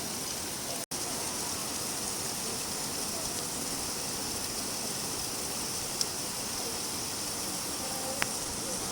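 Steady rain, an even hiss of falling drops. It drops out for an instant about a second in, with two faint ticks from single drops later on.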